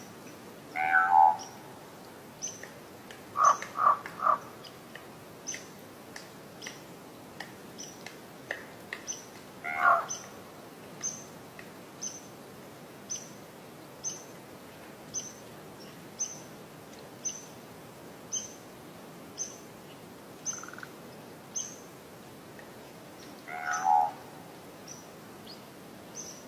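Northern cardinal giving short, sharp, high chip calls about once a second. A few louder, lower calls from another bird cut in about a second in, around four seconds, at ten seconds and near the end.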